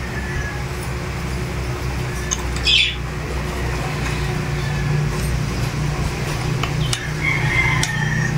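A bird's short squawk about three seconds in, with a brief chirp near the end, over a steady low hum.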